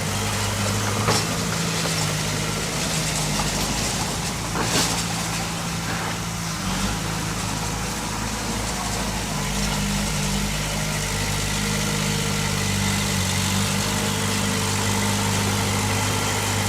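Engine of earth-moving machinery running steadily at a low, even speed, with a couple of short knocks, the louder one about five seconds in.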